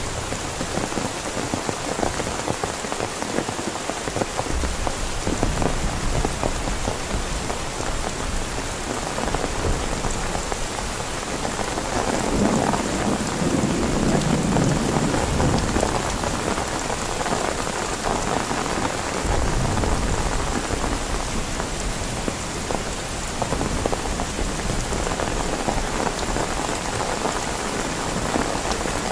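Heavy rain falling steadily on a tent, with a low rumble of thunder swelling about halfway through.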